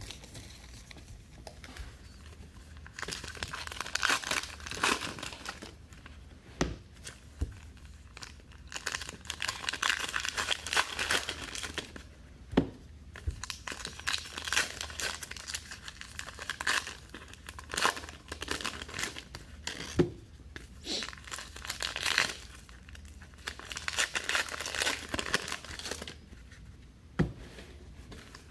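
Plastic and foil wrapping on trading card boxes crinkling and tearing as it is ripped off, in uneven bursts with a few sharp taps.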